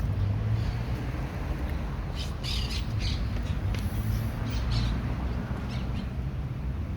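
Several short, harsh squawks from a bird, two to three seconds in and again near the end, over the steady low rumble of street ambience.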